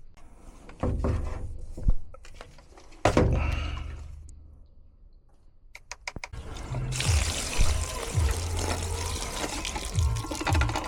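Water pouring and splashing, starting about seven seconds in, while a condensate pump full of water is being emptied and checked; knocks from handling the pump come before it.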